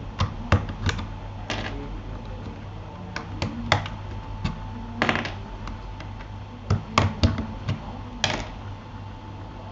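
Irregular plastic clicks and taps from a Keychron K8 mechanical keyboard being worked on, about fifteen sharp clicks spaced unevenly, some in quick pairs.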